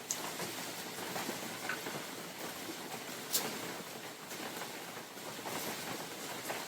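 Steady rain falling on forest leaves and ground, with many separate drops ticking through it and one sharper, louder drop about halfway through.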